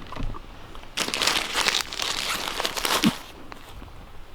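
Granola bar wrapper crinkling as it is crumpled, for about two seconds starting a second in.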